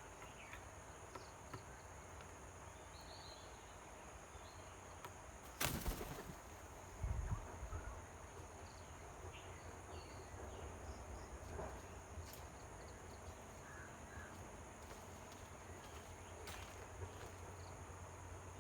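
Outdoor ambience: a steady high-pitched insect drone with faint scattered bird chirps. A sharp knock comes about six seconds in, and a dull low thump about a second later.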